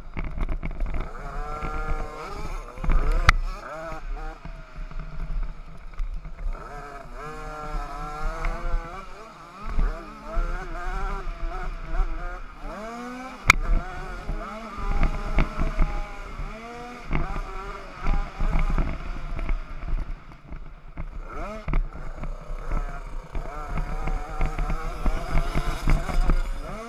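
Small 50cc motocross bike engines revving up and down again and again, the pitch rising and falling as the riders work the throttle, over a low rumble of wind on the microphone, with a few sharp knocks.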